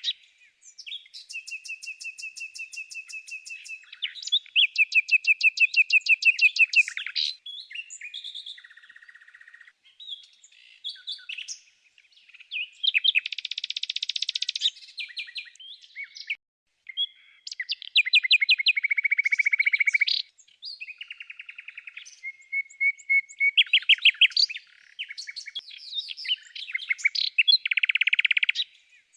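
Songbird singing: fast trills and runs of repeated high chirps in phrases of a second or two, with short pauses between them.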